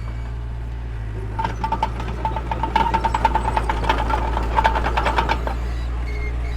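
Mini bulldozer's diesel engine running steadily, with a rapid metallic clatter from about a second and a half in that lasts some four seconds.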